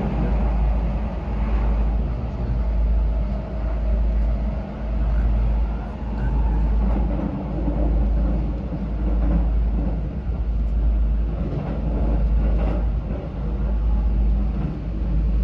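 Electric train running: a steady low rumble that swells and eases every second or two.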